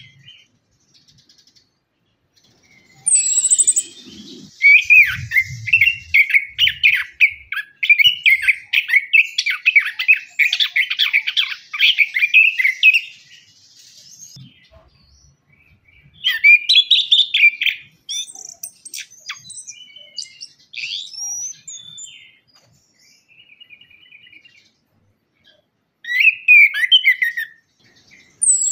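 Orange-headed thrush singing: a long, dense run of varied, rapid warbling phrases starting about three seconds in and lasting some ten seconds, followed by shorter song bursts separated by pauses.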